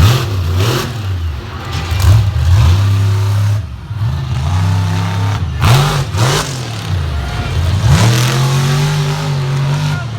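Monster truck engine revving hard over and over. Its pitch climbs and drops several times, with a quick pair of throttle blips around six seconds in and a long high hold near the end.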